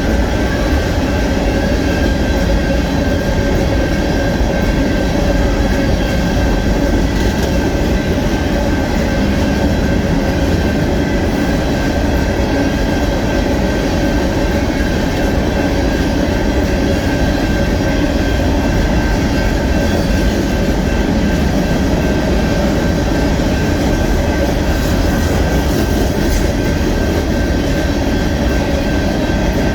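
A Union Pacific rock train's loaded freight cars rolling past close by: a steady loud rumble of steel wheels on rail, with a thin steady whine above it.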